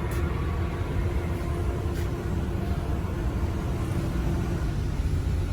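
Steady low mechanical rumble with a faint hum, unchanging throughout.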